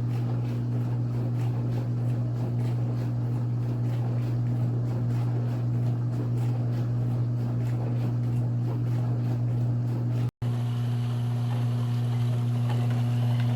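COMFEE' portable countertop dishwasher running with a steady low motor hum. The hum briefly cuts out about ten seconds in, then resumes unchanged.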